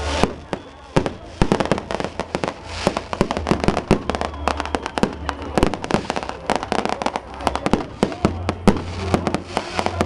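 Strings of firecrackers going off, many sharp bangs in rapid irregular succession throughout, over a crowd's voices.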